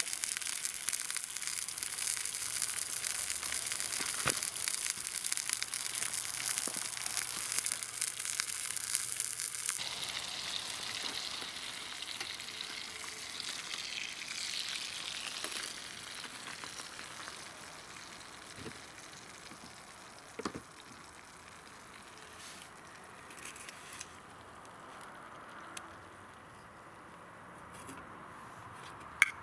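Food sizzling as it fries in a pan, a dense crackling hiss that is strong for about the first ten seconds and then fades away. A few light clicks and knocks sound later on.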